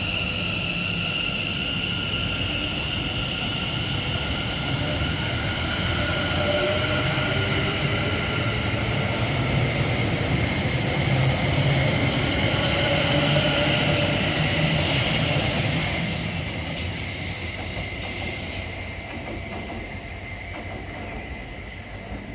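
South Western Railway Class 701 Arterio electric multiple unit pulling out of the station, its traction motors giving steady whining tones over wheel and rail noise. The sound grows louder for the first two-thirds, then fades as the train draws away.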